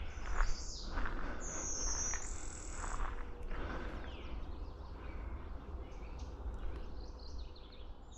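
Several wild songbirds singing in a wetland woodland, among them a high, thin whistled phrase about two seconds in, over a low rumble.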